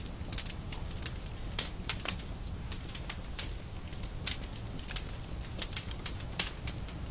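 Fireplace fire crackling: irregular sharp pops and snaps, a few each second, over a low steady rumble of burning.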